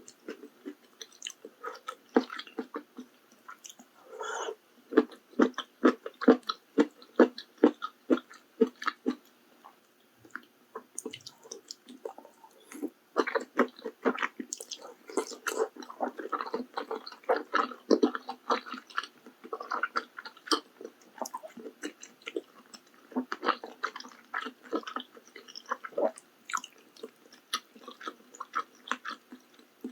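Close-miked chewing of maratang, in quick rhythmic strokes of about three or four a second. The chewing stops for a few seconds about a third of the way in, then resumes.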